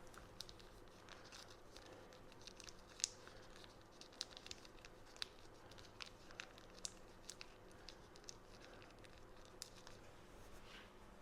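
Faint, scattered clicks and crackles of salt and pepper being added to potatoes in a pan, over near silence with a faint steady hum.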